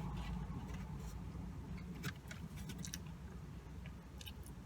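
Quiet chewing of a crispy fried chicken sandwich, with a few soft mouth clicks, over a steady low hum.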